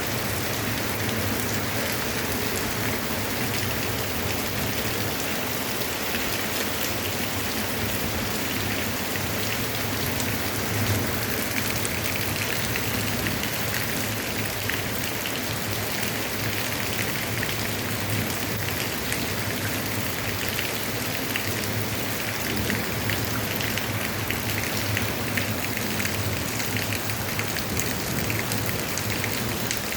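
Heavy rain falling steadily: a dense, unbroken hiss of drops striking surfaces.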